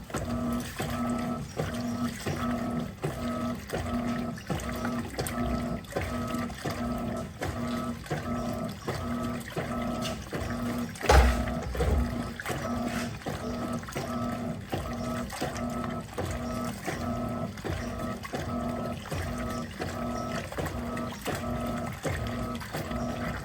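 Electrolux LTP15 top-loading washing machine agitating a load in water: the motor hums through each stroke as the agitator reverses, about every 0.7 s, over water sloshing. A single loud thump comes about 11 seconds in.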